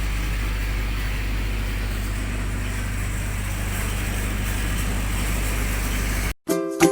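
Generator set's engine running steadily with a deep low hum, cut off abruptly near the end, where plucked ukulele-like music begins.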